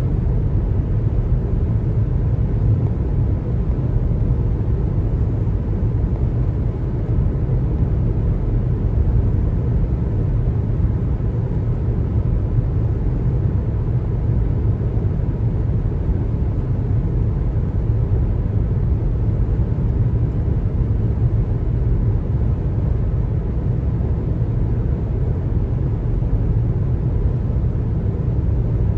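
Steady low rumble of a car driving: road and tyre noise with the engine underneath, unchanging throughout.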